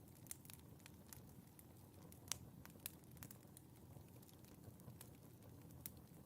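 Faint crackling of a wood fire in a fireplace: irregular sharp pops and snaps over a low, steady rumble, with the loudest pop a little over two seconds in.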